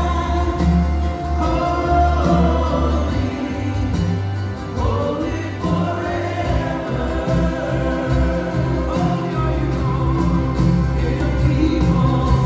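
Gospel choir singing with a live band, with a strong bass line and regular drum hits under the voices.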